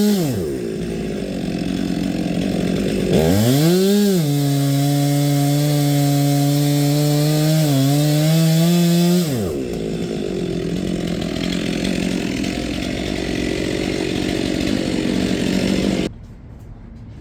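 Chainsaw with a new chain cutting wood at full throttle: the engine note falls just after the start, is pulled up again about three seconds in and held for about six seconds with a brief dip under load, then gives way to a duller, even running noise that cuts off abruptly near the end.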